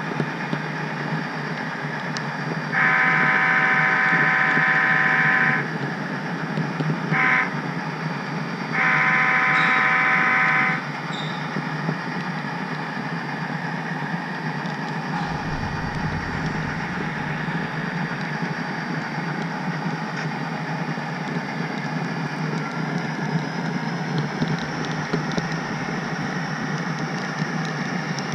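Horn of a sound-equipped HO scale model diesel locomotive sounding a long blast, a short toot and another long blast, over the steady rumbling of the model train running on the track.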